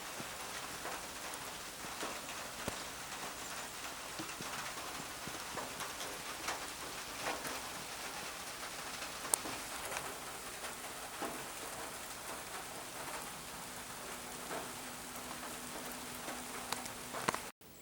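Steady rain falling, an even patter with many scattered louder drops. It cuts off suddenly shortly before the end to a much quieter background.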